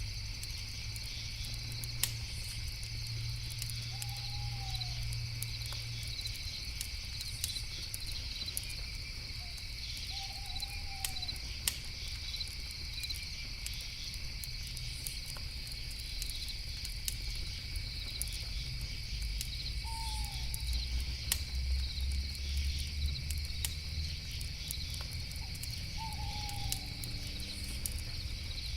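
Crickets chirring steadily in a night chorus, with a campfire crackling in scattered sharp pops. A short falling call sounds four times, several seconds apart.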